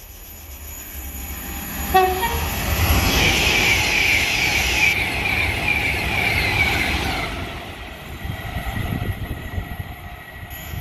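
A train approaching and passing close by. It gives a short horn blast about two seconds in, then loud wheel-and-rail noise follows for about five seconds before fading away.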